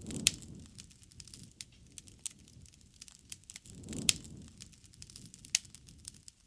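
Wood fire crackling and popping, with frequent sharp snaps. Two low whooshing swells of flame come near the start and about four seconds in, and the loudest pops fall just after each.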